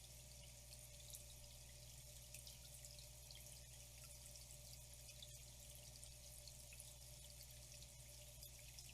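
Faint flowing water: a steady trickle with many small drips and splashes, over a low steady hum.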